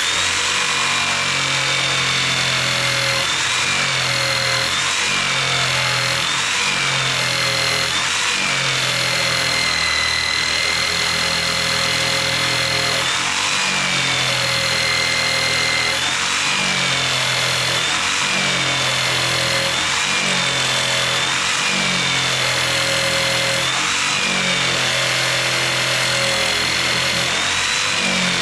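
Electric jigsaw sawing through a thick log, running steadily and loudly, its motor pitch sagging and recovering every second or two. The blade is buried nearly its full length in the wood, so the saw labours and heats up.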